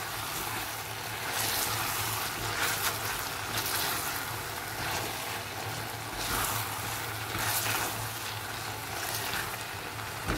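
Chicken karahi sizzling in hot oil in a wok as it is stirred with a spatula, the sizzle surging with each stir, with a steady low hum underneath.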